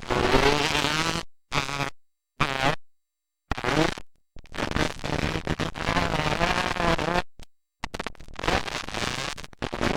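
Dirt bike engines buzzing and revving, pitch rising and falling as the riders work the throttle. The sound cuts out completely several times.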